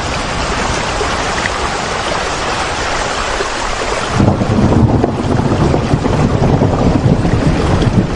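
Steady rain, a dense even hiss. About four seconds in the sound turns deeper and more uneven, with less hiss and a stronger low rumble, like wind-driven rain.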